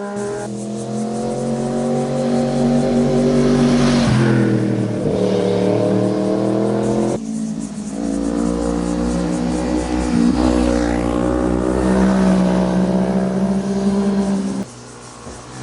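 Sport motorcycle engines accelerating hard, revving up through the gears: the pitch climbs, drops at each upshift, then climbs again. It breaks off abruptly twice as one bike's pass gives way to the next.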